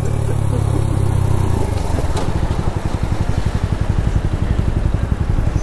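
Motorcycle engine running at low revs, steady at first, then with a fast, even pulse from about two seconds in.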